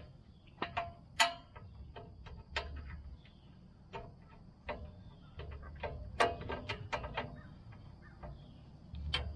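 Small 1/4 inch drive ratchet clicking in short runs while 10 mm bolts are worked loose, with sharp metallic clicks and clinks of the tool on metal.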